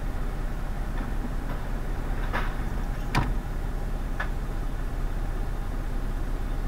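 Car engine idling, heard from inside the cabin, with three short clicks or knocks in the middle, the second the loudest.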